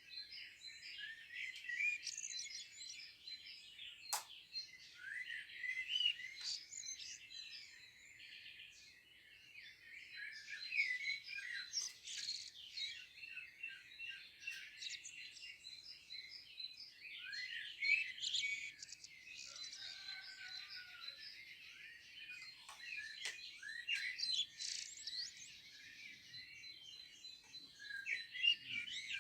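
Dense chorus of many songbirds chirping and trilling over one another without a break.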